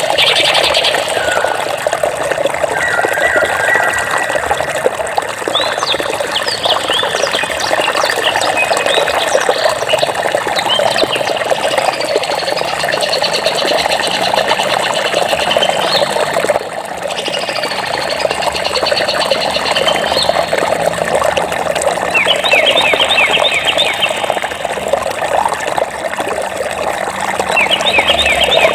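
Steady running water with birds chirping over it: scattered whistles and chirps, then quick repeated trills in the last few seconds.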